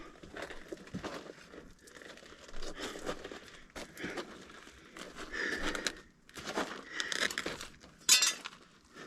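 Irregular crinkling, tearing and scraping as old furnace parts and debris are worked loose and handled, with a sharp loud scrape about eight seconds in.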